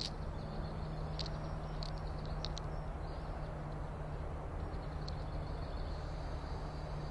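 Short, high bird chirps, several in the first three seconds and one more about five seconds in, over a steady low background rumble with a hum.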